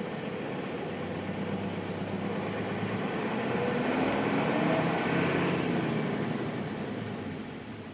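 Nissan Diesel FE6 straight-six diesel engine of a mid-size bus, heard from on board while driving. The engine climbs in pitch and gets louder as the bus accelerates, is loudest about halfway through, then drops away and quietens as it eases off near the end.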